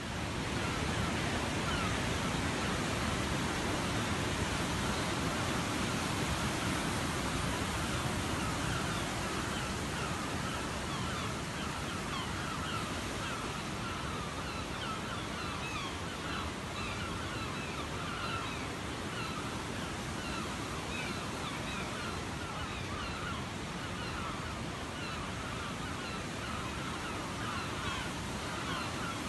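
Waterfall rushing in a steady, loud roar of falling water, with many birds calling in short, repeated cries over it.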